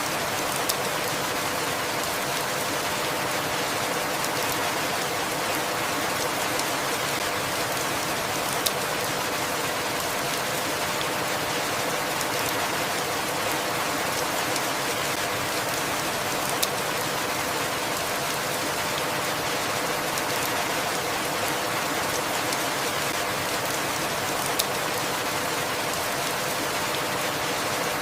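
Steady rain falling, an even hiss with no change in level. A single sharper drop-like tick stands out about every eight seconds.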